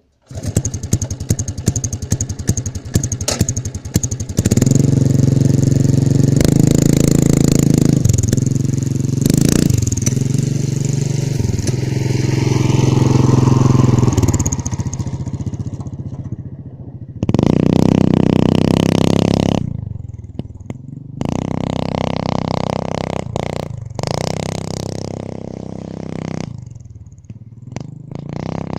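Mini bike's Tula two-stroke engine firing up with rapid popping, then running loud and being revved up and down. In the second half the throttle is opened in repeated bursts, each dropping back between them.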